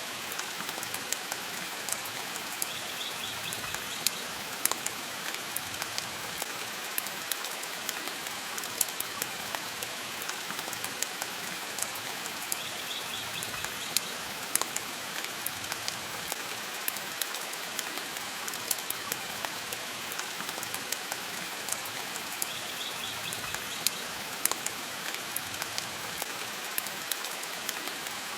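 Steady rain falling, mixed with the sharp, irregular crackles and pops of a wood fire burning in a fireplace.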